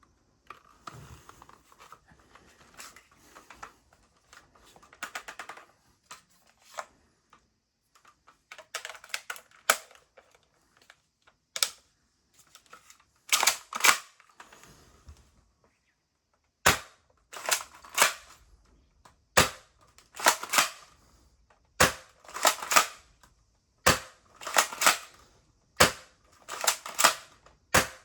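Tokyo Marui SPAS-12 spring-powered airsoft shotgun being handled with light plastic clattering, then pumped and fired again and again. Each shot is a sharp snap, followed by the double clack of the pump racking back and forward, repeating about every two seconds.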